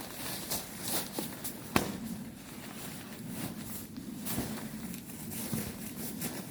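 Footsteps with light rustling, irregular light clicks, and one sharper knock a little under two seconds in.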